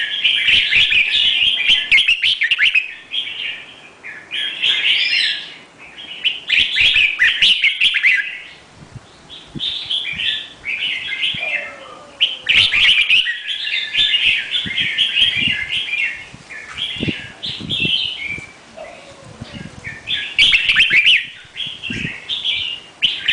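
A songbird singing in bouts of rapid, high chirping phrases a second or two long, separated by short pauses.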